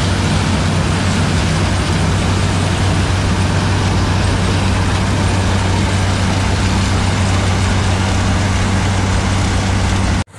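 Zmaj 142 combine harvester running steadily at working speed, a constant engine hum under the broad noise of its machinery; it cuts off abruptly near the end.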